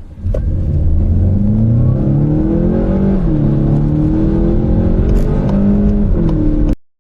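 Car engine accelerating hard from a standstill in a 0–100 km/h sprint. Its pitch climbs, drops at a gear change about three seconds in, climbs again, and the sound cuts off abruptly near the end.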